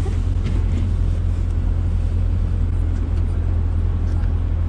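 Dodge Hellcat's supercharged V8 idling with a steady low rumble, heard from inside the cabin.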